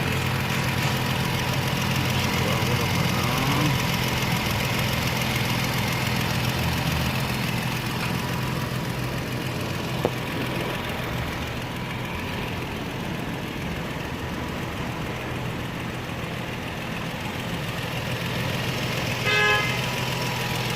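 Toyota 1GR V6 engine idling steadily, with the exhaust leaking at the manifold joint, which the epoxy patch has not sealed. A short beep sounds near the end.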